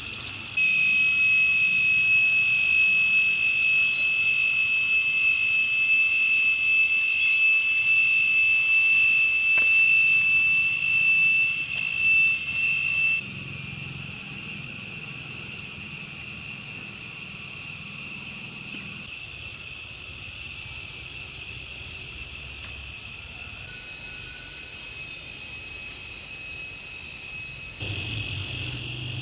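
Insects droning: a loud, steady, high-pitched buzz for about the first half, then cutting to a fainter steady insect chorus.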